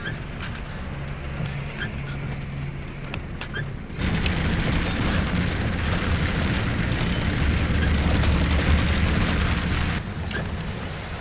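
Scania K410iB bus engine and road noise on the move, a steady low hum. About four seconds in, a much louder rumble and rushing noise begins and cuts off sharply some six seconds later.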